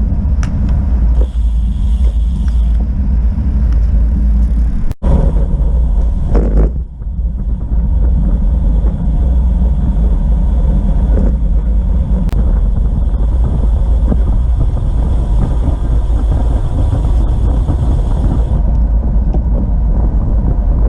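Wind buffeting the microphone of a camera carried on a moving bicycle, a steady heavy low rumble, briefly cut off about five seconds in.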